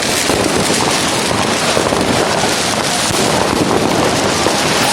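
Dense barrage of fireworks and firecrackers going off all around, their many bangs and crackles merging into one continuous loud crackling din.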